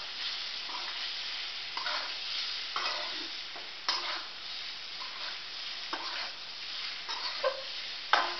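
Spiced taro-leaf (arbi patta) pieces sizzling as they shallow-fry in a metal kadhai, stirred and turned with a flat metal spatula that scrapes and knocks against the pan about once a second, with a sharper knock near the end.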